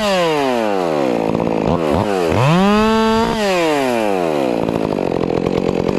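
Stihl 400C two-stroke chainsaw revved at full throttle and let off to idle, with two quick blips of the throttle, opened up again for about a second, then dropping back to a steady idle.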